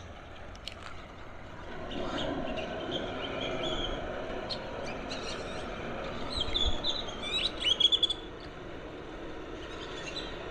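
Birds chirping repeatedly, with a quick, loud run of calls about three-quarters of the way through, over a steady background hum that comes up about two seconds in.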